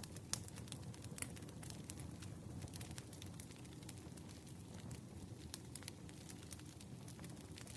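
Wood fire crackling: burning firewood gives a steady low rush under frequent small pops and snaps, with one sharper pop about a third of a second in.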